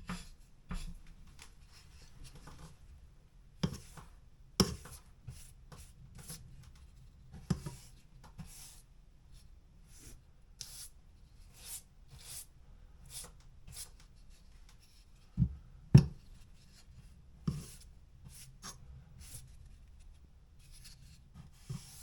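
Latex primer being stroked onto a drywall patch in short, repeated scratchy strokes, about one every half second to second. A few sharper knocks stand out, the loudest about sixteen seconds in.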